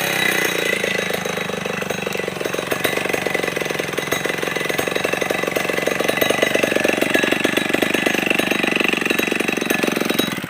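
Stihl 070 two-stroke chainsaw engine running steadily at low speed, with an even, rapid firing beat and no cutting heard.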